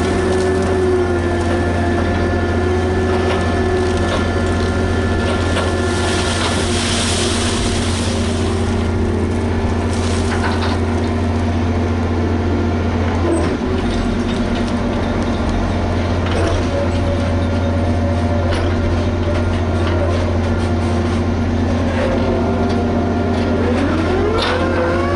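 Liebherr HS 8200 dragline working: its diesel engine runs steadily under load with whining tones from the drive, a hiss of air about seven seconds in, and whines sliding up and down in pitch near the end.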